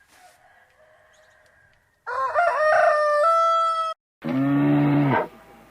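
A rooster crowing once, a call that rises and then holds steady for about two seconds. After a brief gap comes a low, roughly one-second moo from a cow.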